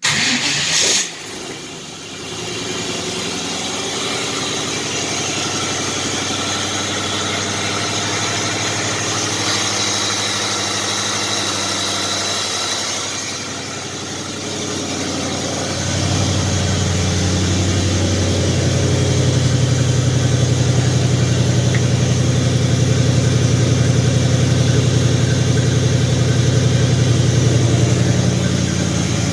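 The 1940 Chevrolet's inline-six engine starts abruptly and keeps running, idling steadily, after sitting unstarted for 50 years. About halfway through it dips briefly, then runs louder for the rest of the time.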